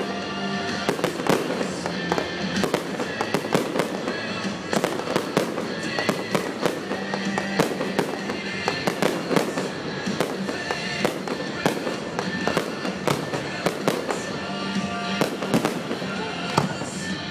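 Fireworks display: many shells bursting in rapid, irregular succession, with music playing throughout.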